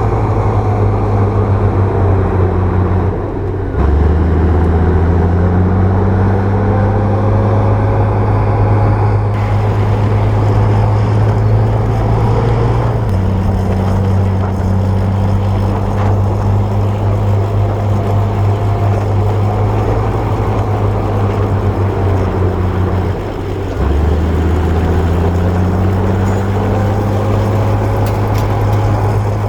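Komatsu crawler bulldozer's diesel engine running steadily under load. Twice, about three seconds in and again near the end, the engine note dips, drops lower and then climbs back up over a couple of seconds as the load on the machine changes.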